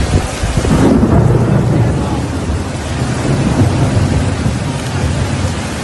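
Heavy rain hissing with a long low rumble of thunder that swells about a second in.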